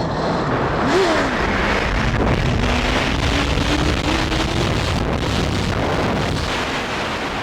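Motorcycle engine accelerating hard, its pitch climbing steadily for a couple of seconds under a loud, constant rush of noise.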